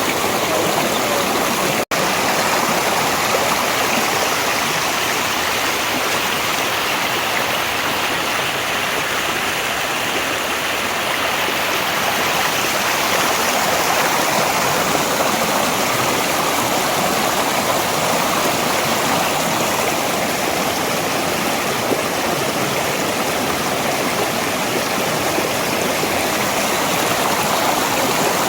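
Mountain valley stream rushing steadily over rocks, a constant loud water noise, broken once by a momentary dropout about two seconds in.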